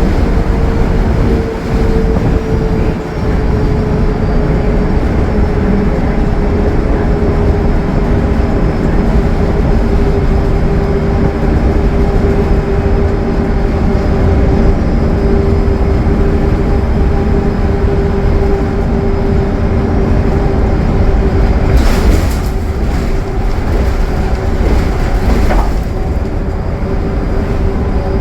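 Inside a 2015 Gillig Low Floor 40-foot transit bus cruising at highway speed: the Cummins ISL9 diesel runs steadily under a heavy low road rumble, with a steady whine whose pitch drifts slightly lower. A few brief sharp rattles or knocks come about three-quarters of the way through.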